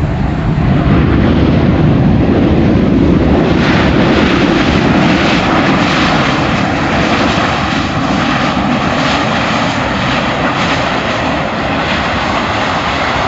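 Boeing 737-800 jet airliner's CFM56-7B turbofans sounding loud on landing, a deep rumble at first. About three and a half seconds in a brighter hiss joins it, and the whole sound then slowly eases off.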